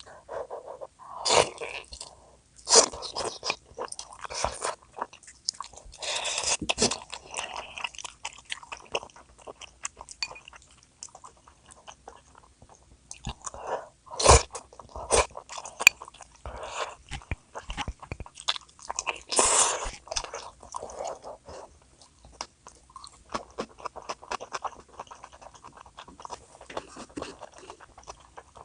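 A person eating close to the microphone: irregular chewing and biting with wet mouth sounds, and several sharper crunchy bites standing out among them.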